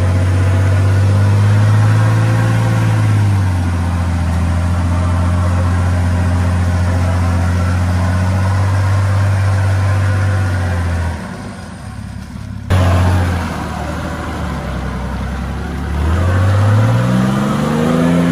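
4WD ute engine working under load as the vehicle crawls through deep mud. The engine note holds steady, drops about three seconds in, falls away sharply near eleven seconds and comes back abruptly, then rises as it revs up near the end.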